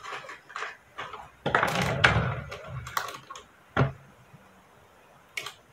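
Close-up handling sounds: scattered light clicks and knocks, with a louder rustling scrape lasting about a second from about a second and a half in, and a sharper knock near the four-second mark.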